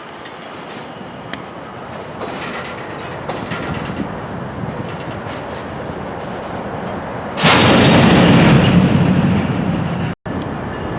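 Railroad cars rolling through a switching yard, their wheel and rail noise building steadily. About seven seconds in, a much louder rush of rolling noise starts suddenly and eases off over a few seconds, and the sound cuts out for an instant near the end.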